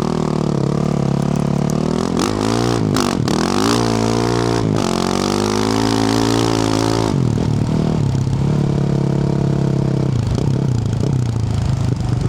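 2024 Yamaha YZ450F's single-cylinder four-stroke engine, through a Yoshimura RS-12 exhaust, revving up and down under the throttle while riding, with several sharp knocks a few seconds in. From about halfway on it runs steadier at lower revs.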